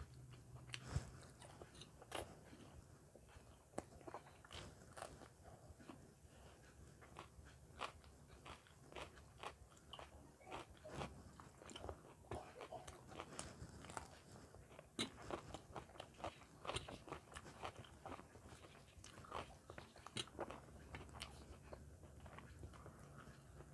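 Close-miked chewing of paratha with aloo matar: irregular wet mouth clicks, smacks and small crunches, with no steady rhythm.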